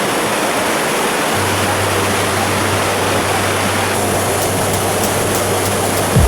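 Waterfall rushing, a steady even wash of water noise. A low steady hum comes in about a second and a half in.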